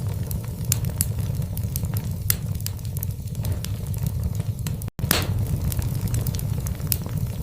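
Wood fire burning in a fireplace: irregular sharp crackles and pops over a steady low rumble of the flames. The sound cuts out completely for an instant about five seconds in, then resumes with a pop.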